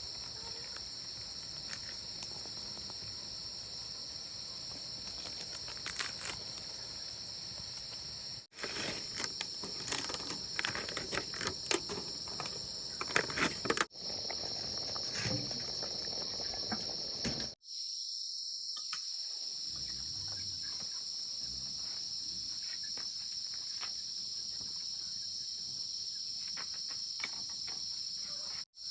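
A steady, high-pitched chorus of insects, crickets or similar, running throughout. Between about 9 and 14 seconds in, irregular rustling and sharp snaps or clicks from close handling rise above it.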